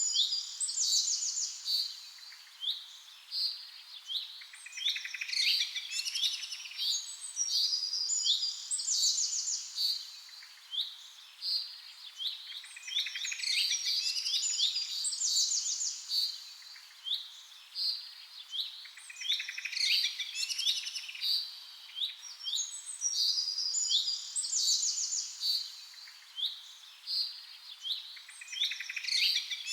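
Songbirds chirping and trilling, many quick high calls overlapping; the same stretch of song seems to come round again about every twelve seconds, like a looped recording.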